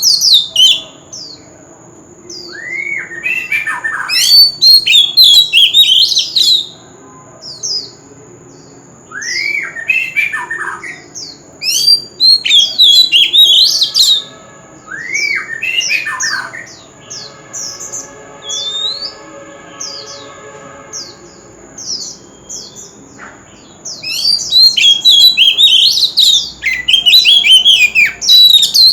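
Oriental magpie-robin singing its loud, varied competition song: bursts of quick whistled notes that sweep up and down, mixed with harsh calls, broken by short pauses. A thin steady high whine runs underneath.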